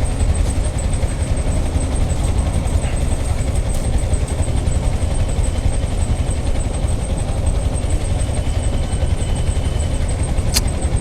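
Idling traffic at a stopped signal: a steady low engine rumble of waiting vehicles, with a brief click near the end.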